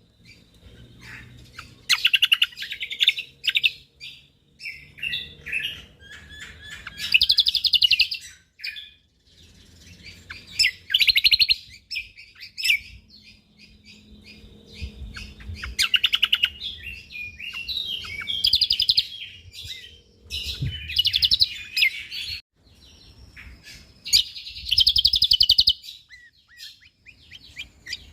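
Cucak kombok (kecial kombok) songbird singing in rapid bursts of dense rattling trills and chatter, one every second or two with short pauses between.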